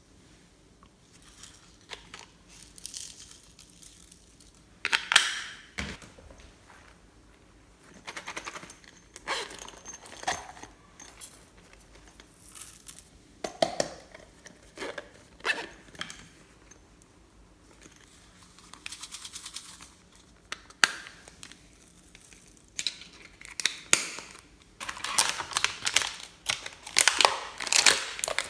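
Crinkling and crackling handling noises in short, separate bursts with quiet gaps between, becoming louder and almost continuous near the end.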